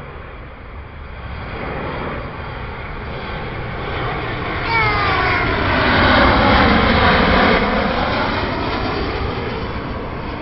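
Ryanair Boeing 737 jet airliner passing low on its approach to land: the jet noise builds to a peak about six to seven seconds in, with whining engine tones that fall in pitch as it goes by, then eases off.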